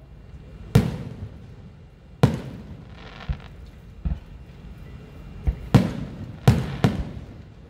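Aerial firework shells bursting overhead: a string of about eight sharp booms at uneven intervals, each trailing off in a rumbling echo, with several coming in quick succession in the second half.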